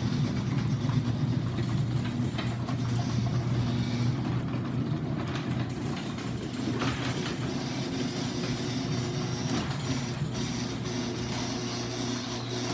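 Stanley garage door opener running steadily as it lowers the garage door, a continuous low motor hum with mechanical rattling of the drive and door.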